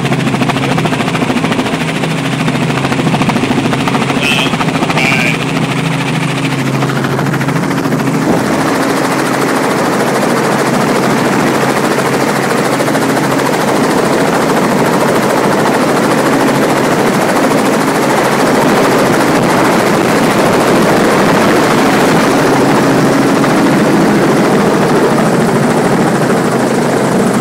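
Helicopter engine and rotor drone heard from inside the cabin: a steady low hum that broadens into a louder, wider rush about eight seconds in.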